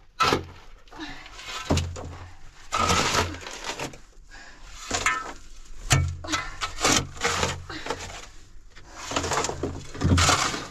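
A series of irregular knocks, thuds and crunching noises, with the loudest strokes at about 2, 3, 6 and 10 seconds in.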